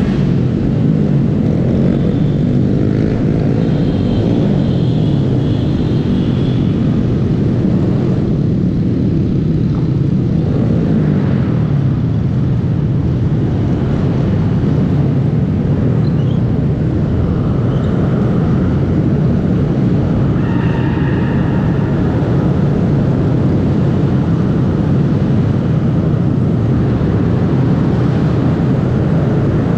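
Small Honda single-cylinder motorcycle ridden steadily, its engine running under a dense, even rush of wind and road noise. The sound stays level throughout.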